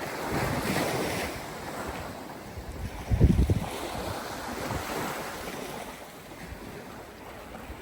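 Small waves washing up on a beach, with wind on the microphone; the wash swells in the first couple of seconds. A brief loud low thump comes about three seconds in.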